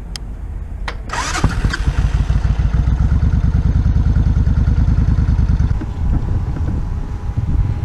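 Suzuki Intruder 1400 V-twin motorcycle engine being started: two short clicks, a brief burst as it turns over about a second in, then the engine catches and runs with a steady pulsing beat.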